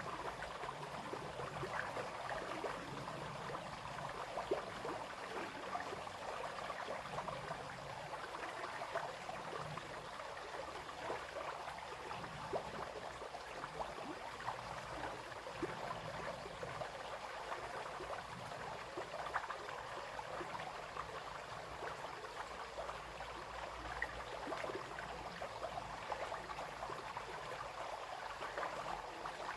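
Small brook babbling and trickling over stones, a steady flow of water with many little splashes and gurgles.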